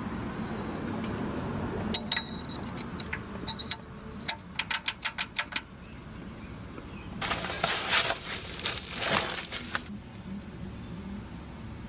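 Hand tools and bolts clinking on metal with a short ring, then a quick run of about nine ratchet clicks, then a harsh rattling burst of about two and a half seconds, from work fitting a new flexplate.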